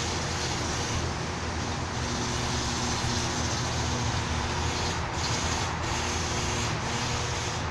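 A Chamberlain HD400DM half-horsepower garage door opener running steadily while the door travels, a low motor hum with the rumble and rubbing of the moving door.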